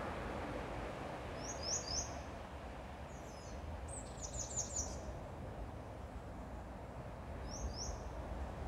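Small songbird calling: a few quick groups of two to six short, high chirps over a steady low background hum.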